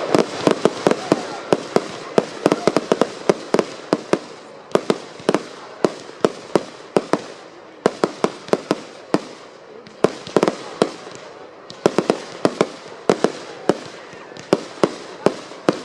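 Fireworks display: a quick, irregular run of sharp bangs from bursting shells, several a second, with a hiss of noise between them.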